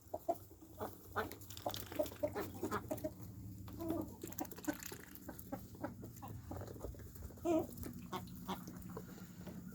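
Backyard chickens clucking, short scattered calls with a couple of slightly longer ones, over a faint steady low hum.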